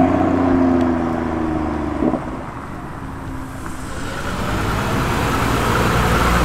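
A BMW M2's turbocharged straight-six engine note fades over the first couple of seconds as it pulls away. Then, from about four seconds in, a BMW 635's straight-six rumble grows louder as it approaches.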